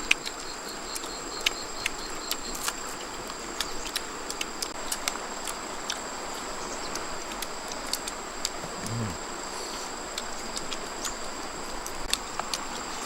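Steady chorus of crickets or other night insects, two unbroken high trills, with many scattered small clicks and ticks and a brief low sound about nine seconds in.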